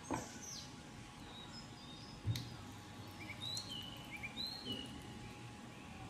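Several faint, short, high bird chirps over a low steady background, with one soft knock about two seconds in.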